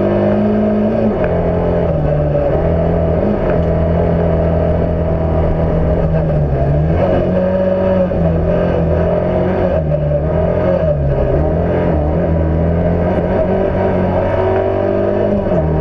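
Fiat Cinquecento's engine heard onboard while driven hard on a race circuit, its note dropping and climbing again several times as the driver lifts and accelerates through corners.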